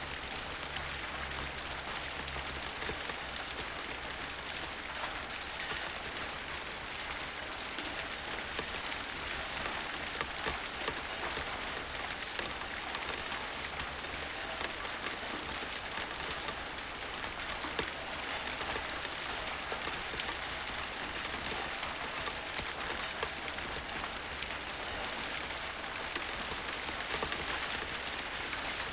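Steady rain falling, a dense hiss with many individual drops ticking and splattering. A low thunder rumble dies away in the first few seconds.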